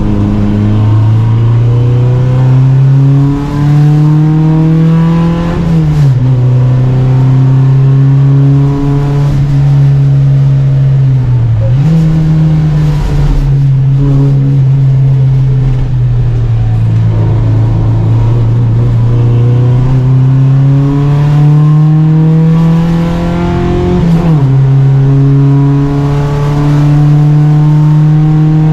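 Volvo Amazon 121 race car's engine at full throttle, heard from on board: revs climb steadily, then drop sharply at an upshift about six seconds in. A brief lift near twelve seconds is followed by a long pull up through the revs and another upshift about 24 seconds in.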